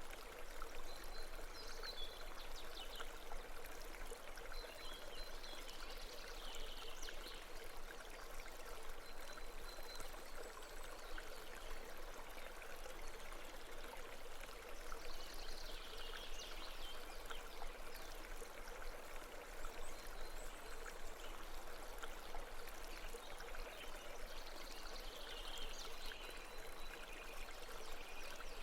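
Steady babbling of a small stream or brook, with short high chirps now and then.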